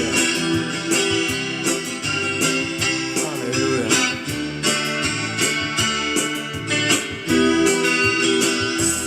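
Instrumental break of a song: a strummed guitar with backing instruments, no singing.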